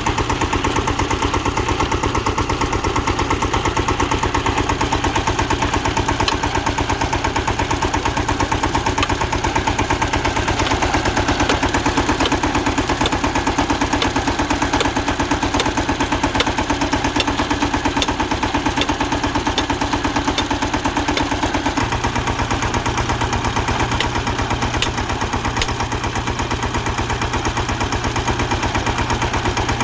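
Tractor diesel engine running steadily to work a tractor-mounted borewell drilling machine, with a fast, even pulse. Its note changes slightly about two-thirds of the way through.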